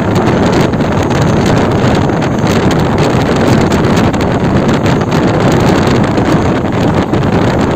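Loud, steady rush of wind buffeting the microphone over the running noise of a moving train.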